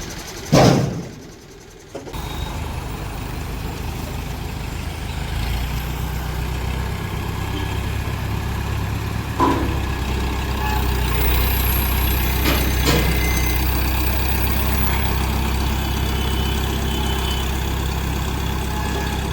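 Heavy diesel engine running steadily, its low drone growing louder about five seconds in. A sharp knock comes near the start and a few more knocks partway through.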